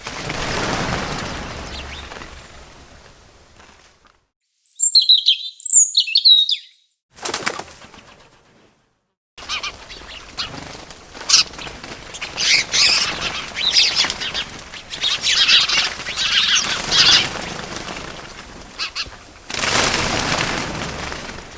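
Birds' wings flapping in a whooshing rush near the start and again near the end. In between come several short high chirps and then a longer run of chirping and twittering, broken once by a second or so of total silence.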